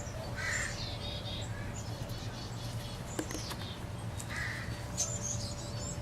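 Wild birds calling outdoors: short calls about half a second in and again around four and a half seconds, with high chirps in between, over a steady low hum.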